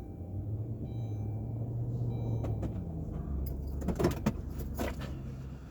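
Steady low hum of a motor vehicle, which drops lower about three seconds in, with a few short clicks or knocks after the drop.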